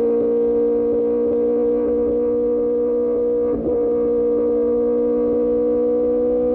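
QJ Motor SRK600 inline-four engine running through an Austin Racing exhaust at a steady cruising speed, a constant droning note. There is a brief dip in level about halfway through, and the pitch rises slowly near the end as the bike picks up speed.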